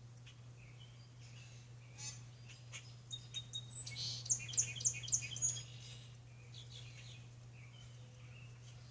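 Songbirds chirping in the morning, building to a quick run of five or six loud, high chirps about four to five seconds in. A steady low hum runs underneath.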